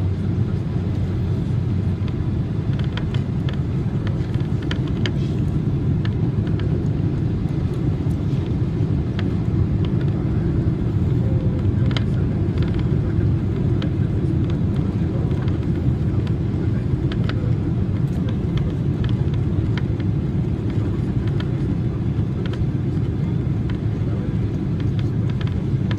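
Steady low rumble of an airliner cabin, with faint scattered clicks and rattles over it.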